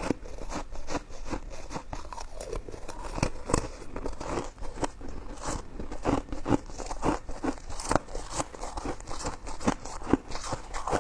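Close-miked chewing of coconut sticky rice cake: a rapid, irregular run of short mouth clicks and smacks.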